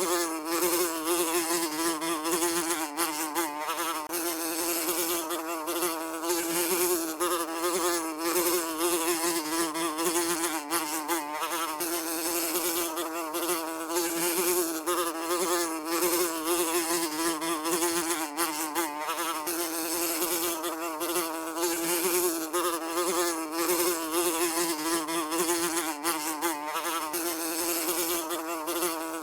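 Housefly buzzing continuously, a steady wing-beat drone whose pitch wavers slightly as it flies.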